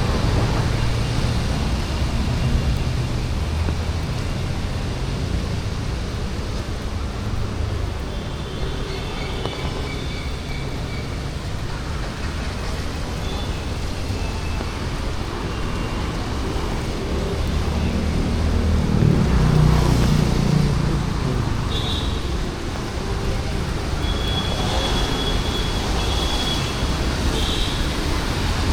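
City street traffic: a steady hum of passing vehicles, with one vehicle passing close and loudest about two-thirds of the way through. Short high-pitched tones sound near the end.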